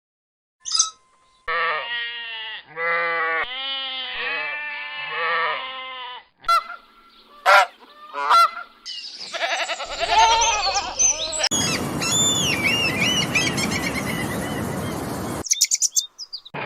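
Geese honking: a run of repeated honks lasting several seconds. A few sharp clicks follow, then a stretch of steady hiss with high gliding tones over it.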